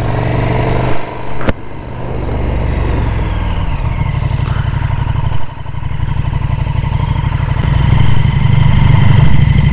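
KTM 1290 Super Duke R's V-twin engine running through an SC Project SC1-R carbon fiber slip-on exhaust, with a deep, bassy note while the bike accelerates on the highway. The sound dips briefly about five and a half seconds in, then builds louder toward the end.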